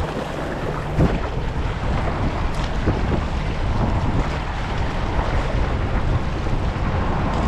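Steady wind buffeting the microphone over open saltwater, with waves washing, and a single knock about a second in.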